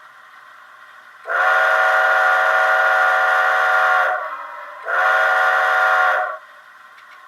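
Model steam locomotive's digital sound decoder playing a steam whistle through a small cell-phone speaker: one long blast of about three seconds, then a shorter blast after a brief pause, over a faint steady hiss.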